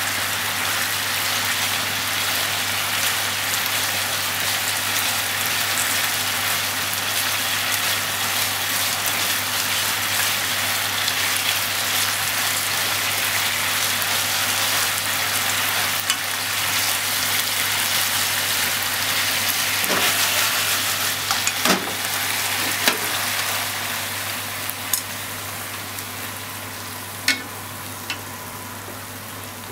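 Pork and sliced onion sizzling in a nonstick frying pan as they are stir-fried with chopsticks. The sizzle eases off over the last few seconds, with a few sharp clicks of the chopsticks against the pan.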